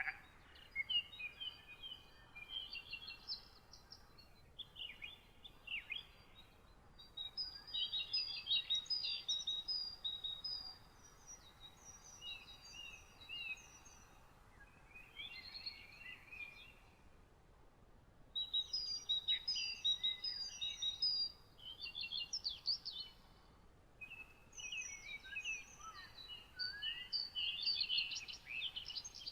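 Several songbirds singing, a mix of repeated chirps and trills in phrases a few seconds long with short pauses between, over a faint steady background hiss.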